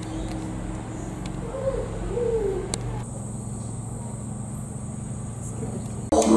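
Two short, wavering low hooting calls from a bird about two seconds in, over a steady machine hum. Near the end a didgeridoo suddenly starts its loud drone.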